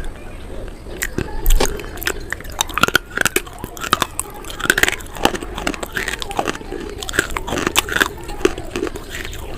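Close-up biting and chewing of something hard and brittle: many sharp crunches in quick, irregular succession, the loudest about a second and a half in.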